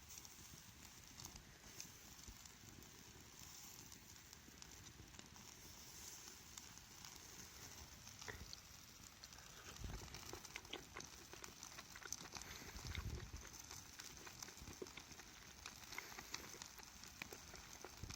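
Faint wood campfire crackling, with irregular small pops and snaps over a light steady hiss.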